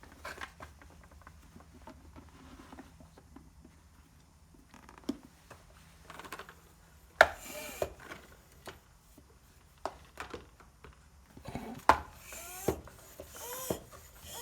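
Compressed air blown in short hissing bursts into a small wheel's inner tube with the valve core out, twice: about seven seconds in and near the end. Between them come clicks, knocks and squeaky rubbing of rubber as the tyre and tube are handled.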